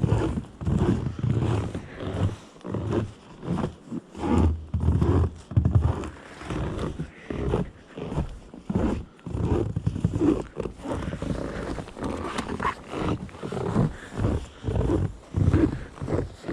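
Footsteps crunching in fresh snow at a steady walking pace, about one step every two-thirds of a second.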